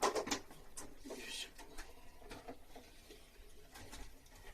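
A few sharp knocks and clicks, then a short scrape or rustle about a second in, followed by scattered light ticks: small handling noises of hands-on installation work.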